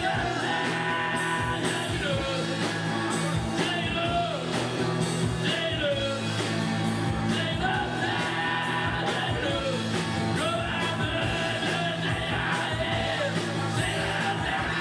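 Rock band playing a song: a sung vocal line over a steady drum beat and amplified instruments.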